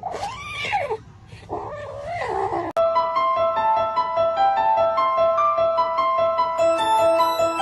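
A cat meows twice, long drawn-out calls that rise and fall in pitch. About three seconds in, the sound cuts abruptly to a tinkling keyboard tune of bell-like notes.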